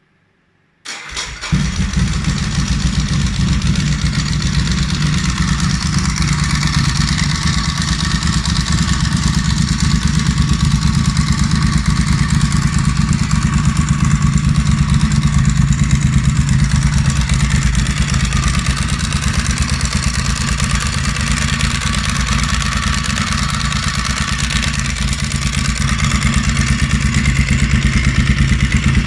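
Ducati motorcycle engine starting up about a second in, then running steadily through its exhaust with a deep, loud note.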